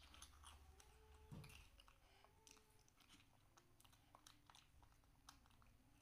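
Very faint crunching and chewing of small crisp fish-shaped crackers, heard as a scatter of small crisp crackles, with one soft thump about a second and a half in.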